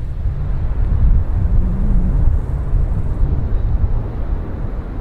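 Steady low rumble of a large airplane.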